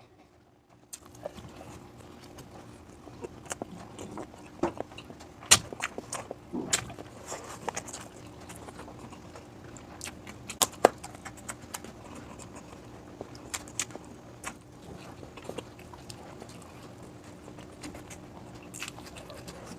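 Eating sounds close to the microphone: chewing with irregular sharp clicks and taps of utensils, the loudest about five and a half and eleven seconds in, over a faint steady hum.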